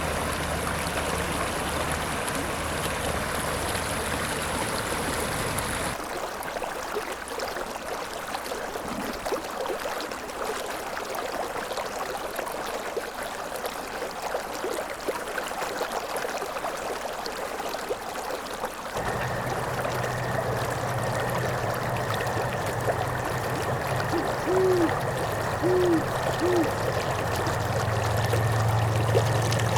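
Mountain river water flowing steadily over rocks, its sound shifting abruptly twice as the recording changes. Near the end come three short hoots in quick succession.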